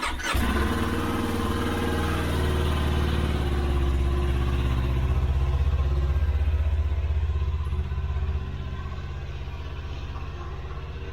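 Motorcycle engine running with a fast, even pulse, starting abruptly and then dropping to a quieter steady run about eight seconds in, as the bike sits stuck in deep snow.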